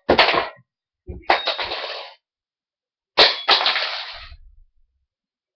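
A run of crashes and clangs: four sharp impacts, two of them close together about three seconds in, each followed by a clattering rattle that fades away.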